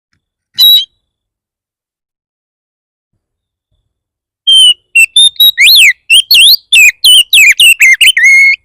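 Oriental magpie-robin (kacer) singing a fierce song. One short whistled note comes about half a second in. After a pause of nearly four seconds, a fast run of loud, clear whistled notes with quick rising and falling sweeps follows and carries on to the end.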